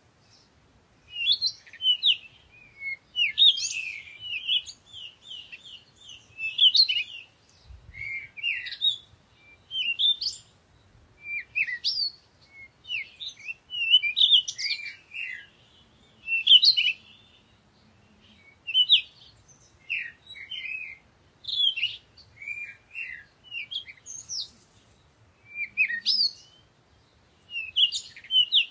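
Small birds chirping in quick, high-pitched twittering phrases that come every second or two with short gaps between them.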